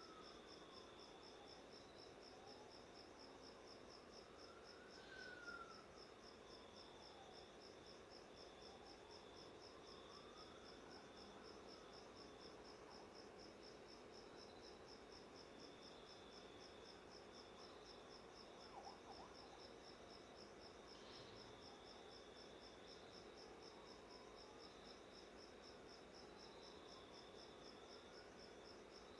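Faint, steady insect chirping, a fast even pulse that never stops. A faint tone slowly rises and falls underneath every few seconds.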